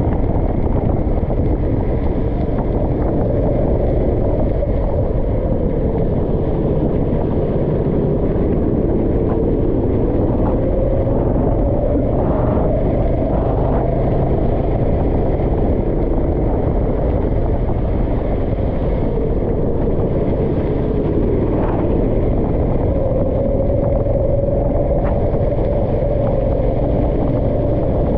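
Go-kart engine running continuously under a steady low rumble, its pitch slowly rising and falling several times as the throttle is worked.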